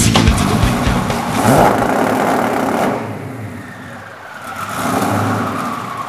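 Twin-turbo Ford GT's V8 engine revving hard, fading for a moment in the middle and then picking up again, with a whine that glides down in pitch over the second half.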